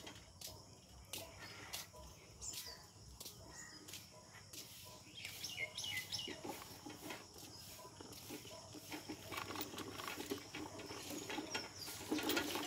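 Faint rural outdoor ambience with scattered short bird chirps and calls, most of them in the first half.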